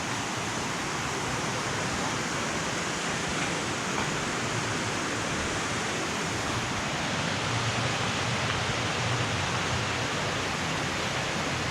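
Steady rush of flowing water, a creek or waterfall running strongly.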